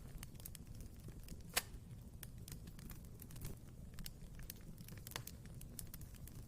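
Wood fire burning in a fireplace, crackling with scattered sharp pops over a low steady rumble of the flames, one pop about one and a half seconds in much louder than the rest.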